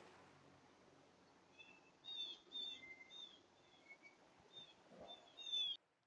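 Small birds chirping: a run of short, high chirps and quick down-slurred notes starting about a second and a half in, the loudest just before everything cuts off abruptly near the end.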